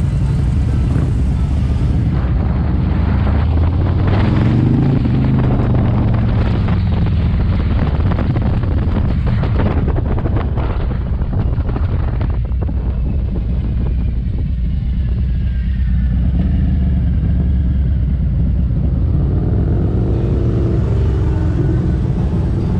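Motorcycle under way, engine running with a heavy low rumble; its pitch rises and falls about four seconds in and again near the end as the throttle or gear changes.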